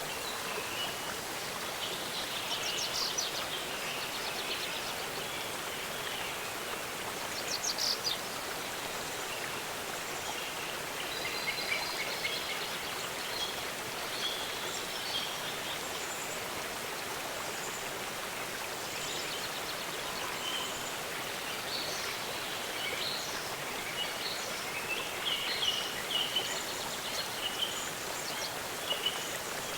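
Steady rush of a waterfall, with birds chirping over it in short bursts: one about three seconds in, another near eight seconds, and more frequent calls near the end.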